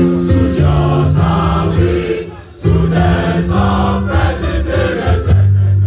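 Singing of a school anthem: held, sustained notes in two phrases, with a short break for breath about two and a half seconds in.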